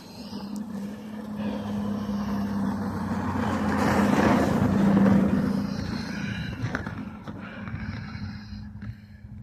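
A motor vehicle passing by. Its engine hum and road noise grow louder to a peak about five seconds in, then fade away.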